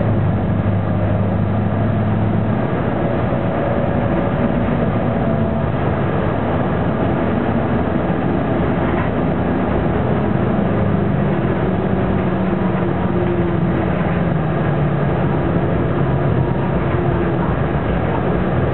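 Detroit Diesel Series 50 inline four-cylinder diesel engine of a Neoplan AN460 articulated bus, driving through an Allison B500R automatic transmission, heard from inside the bus while under way. The engine note rises and falls in pitch as the bus pulls and eases off.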